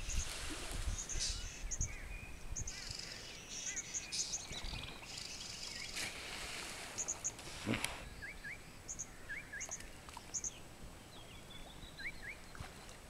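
Birds calling: short high chirps in twos and threes and quick rising notes, over a steady outdoor hiss. A low rumble at the start and a brief knock a little past halfway.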